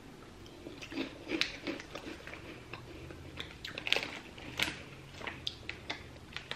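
A person chewing a crunchy ring-shaped puffed snack, a string of irregular crunches.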